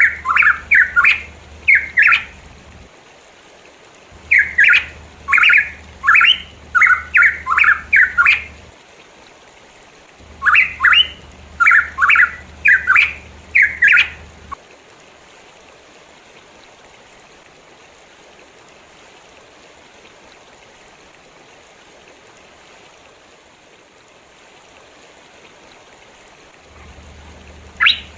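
Pitohui calling in three bursts of rapid, repeated short notes over the first half, each burst a few seconds long. Then about twelve seconds with only a steady background hiss, before the calls start again at the very end.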